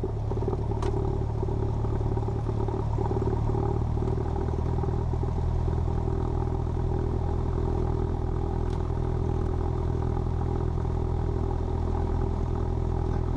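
A Cessna 172P's four-cylinder Lycoming O-320 engine and propeller running steadily at low taxi power.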